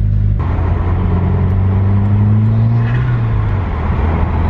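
2019 Subaru WRX's turbocharged flat-four through an Invidia N1 single-exit race exhaust, heard from inside the cabin: a deep, steady exhaust drone. Its pitch climbs slowly and then drops about three seconds in, with a rushing noise cutting in about half a second in.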